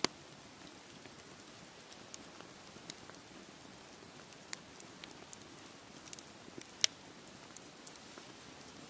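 Wood fire crackling with scattered sharp pops, the loudest about seven seconds in, over a faint steady rush of sea waves.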